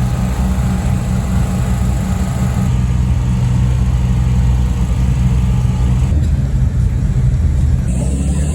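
Classic Mini rally car's engine running steadily, heard from inside the car, with no revving.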